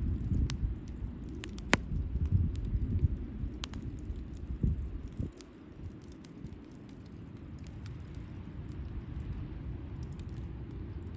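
Wood campfire burning, with scattered sharp crackles and pops over a low rumble that eases about halfway through.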